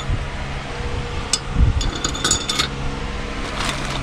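Light metallic clinks and clicks of loose steel bolts being handled, a few scattered taps with a cluster a little past halfway, over a steady low hum.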